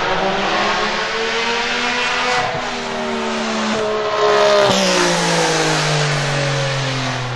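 Singer DLS Turbo's straight-piped 700-hp twin-turbo 3.8-litre flat-six accelerating hard, its pitch climbing and breaking briefly at each upshift. It is loudest as the car passes, about four and a half seconds in, then the pitch falls as it pulls away.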